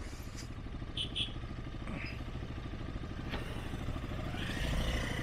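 A two-wheeler's engine runs low and steady at crawling speed, growing a little louder near the end. A couple of short high chirps come about a second in.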